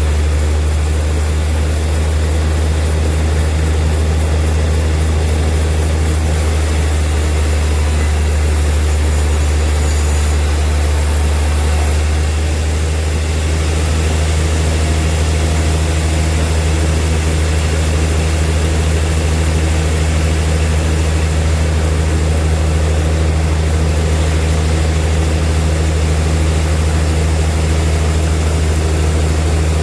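Bandsaw sawmill running steadily, a loud low machine drone with a constant hum; a high hiss in it eases off about twelve seconds in.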